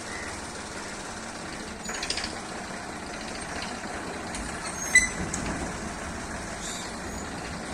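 Tractor with a trolley in tow, its engine running steadily, with a short rattle about two seconds in. A single sharp clank about five seconds in is the loudest sound.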